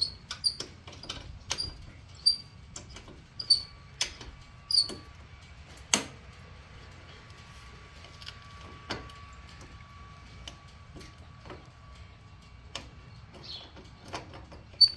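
Metal hand tools and the floorboard's metal mount clicking and clinking as the board's position is set: a run of irregular ringing clinks, one sharp loud clack about six seconds in, then a few scattered taps.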